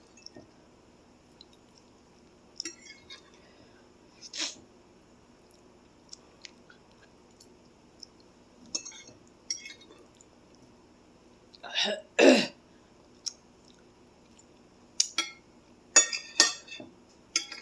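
A person eating extra-spicy noodles makes short, scattered mouth and eating noises, with two louder coughs close together about twelve seconds in and a cluster of quick sounds near the end. The coughing comes from the heat of the spicy sauce.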